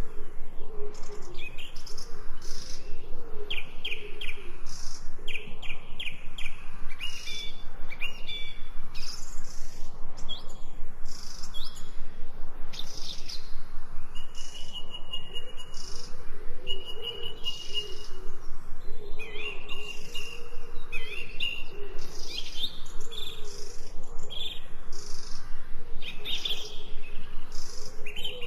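Many birds chirping and calling together, short overlapping calls and rapid trills, with a few longer held whistled notes about halfway through.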